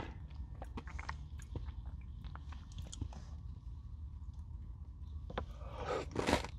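Close-up chewing of a crunchy Nature Valley oat granola bar coated in yogurt and whipped cream, with small crackling crunches, and a louder bite near the end.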